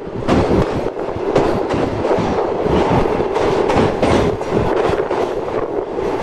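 Karachi Express passenger train running on the rails: a steady, loud rumble with an uneven clatter of wheels over the track.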